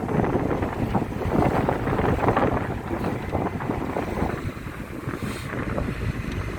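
Car on the move, heard as an uneven rumble of the vehicle with wind buffeting the microphone.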